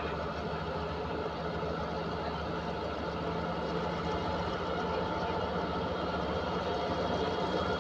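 Diesel locomotive engine running steadily at idle with a low hum, growing slightly louder toward the end.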